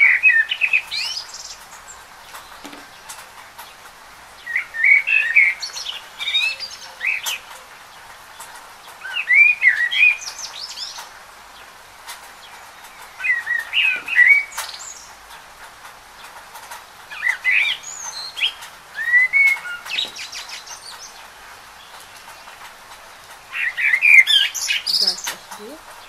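A bird chirping in short bursts of twittering notes, one burst about every four seconds, over a steady hiss.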